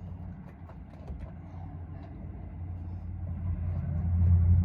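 A truck's engine idling, a steady low rumble that grows louder near the end, with a few faint clicks.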